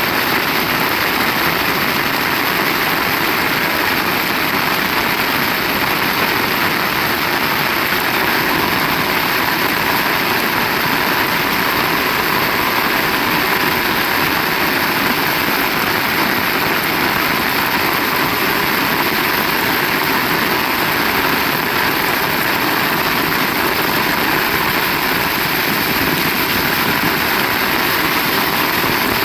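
Heavy rain falling hard: a loud, steady, even hiss with no breaks.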